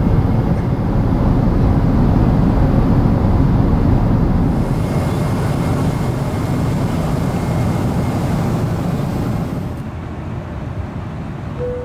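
Steady rumble of jet engines and rushing air heard inside the cabin of a Boeing 777-300ER with GE90 engines, dropping in level near the end.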